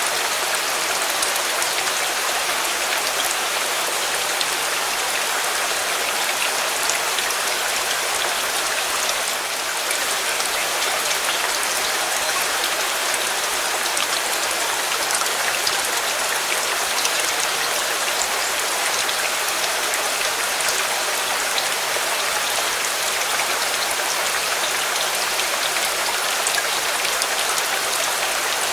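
Steady rain falling, an even dense hiss with scattered sharper drop ticks.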